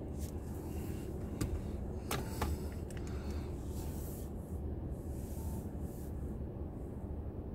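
Steady low hum of a car at a standstill, heard inside the cabin: the engine idling. A few faint clicks and rustles about two seconds in.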